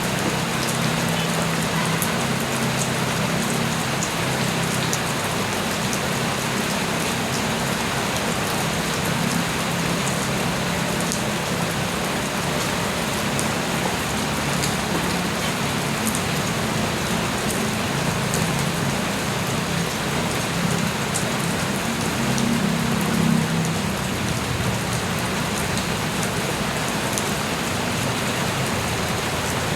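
Light rain falling steadily: an even hiss with scattered sharp drop ticks and a low drumming underneath. It swells briefly about three quarters of the way through.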